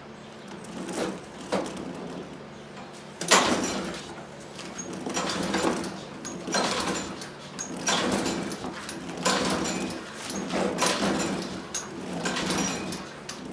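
Briggs & Stratton lawnmower engine being pull-started over and over, the recoil starter cord whirring out about nine times, roughly one pull every second and a half. The engine turns over but never fires: its ignition is giving no spark.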